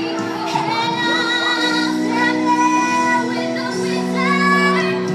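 Music: female voices singing long, wavering held notes over instrumental accompaniment.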